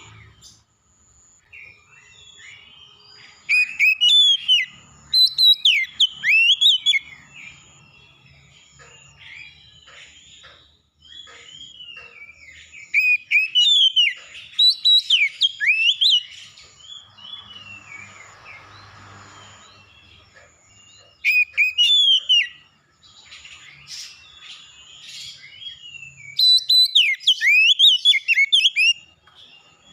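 Birds singing: four loud bursts of rapid, varied whistled notes sweeping up and down, over quieter background chirping and a faint high note repeating about once a second.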